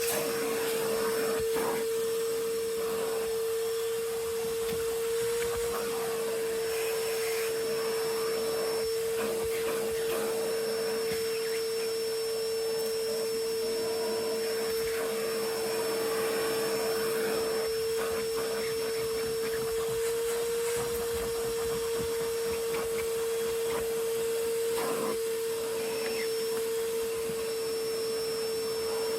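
Vacuum cleaner running steadily with a constant motor whine, the nozzle knocking and scraping now and then as it works.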